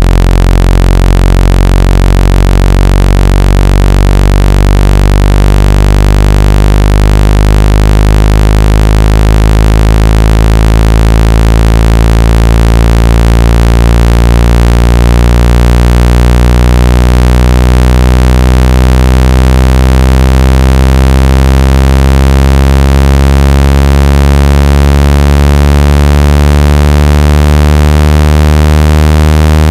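Loud synthesized water-ejection tone for clearing water from a phone or earphone speaker: a steady low drone of several deep tones at once, with higher overtones slowly drifting in pitch. The lowest tone fades away near the end.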